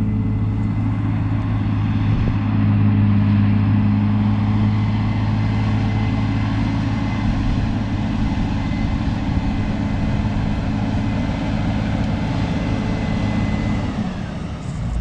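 The diesel engine of a large farm harvest machine running steadily with a deep, even hum. About fourteen seconds in, a faint high whine glides down and the hum eases slightly.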